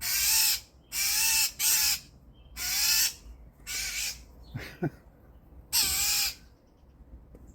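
Northern mockingbird giving six harsh, rasping scold calls about half a second each, a mobbing alarm at a cat.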